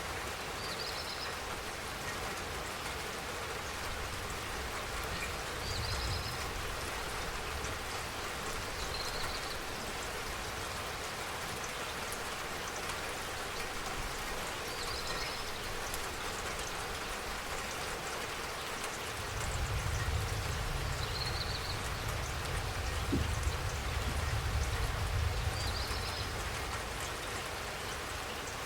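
Steady spring rain falling, an even patter with no pauses. A short high chirp recurs every few seconds, and a low rumble swells in past the middle and fades out near the end.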